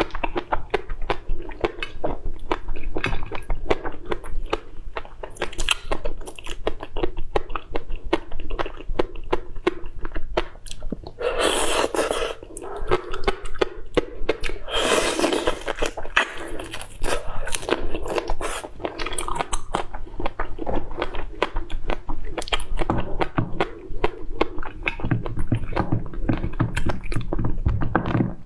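Close-miked mouth sounds of someone eating: rapid wet chewing, smacking and biting, with a couple of longer, louder noisy stretches around the middle.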